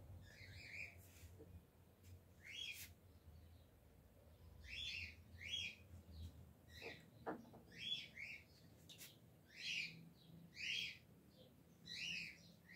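A bird chirping faintly, short high calls repeated every second or so, often in pairs.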